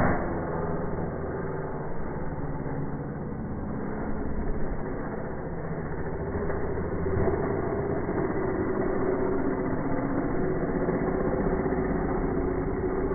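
An engine running steadily, getting a little louder about seven seconds in.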